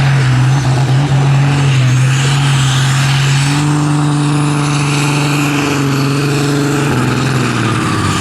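Competition pulling tractor's engine running loud and hard at steady high revs, under load during a pull. The note changes and thins out a second or so before the end.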